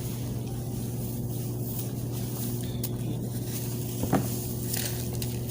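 A steady low mechanical hum, with a faint click near the middle and a short sharper knock a little after four seconds in.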